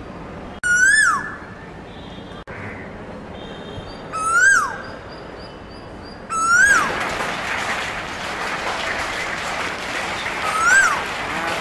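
A bird calling four times, a few seconds apart: each call is a short whistle that rises and then drops sharply. From about halfway through, a steady hiss of background noise comes in under the calls.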